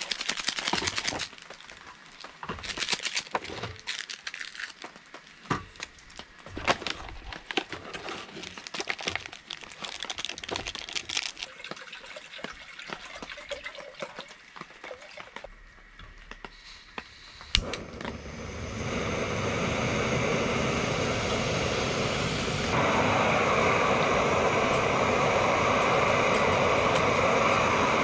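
Crinkly rustling and scattered clicks of packaging and cookware being handled. Then a sharp click and the steady rushing hiss of a portable gas camp stove burner lit under a pot, which gets louder about five seconds later as the flame is turned up.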